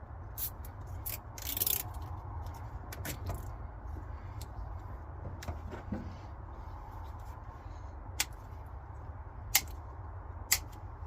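Plastic zip ties being handled and cinched around hydraulic hoses: a short zipping rasp about two seconds in and scattered sharp clicks, three louder ones near the end, over a steady low hum.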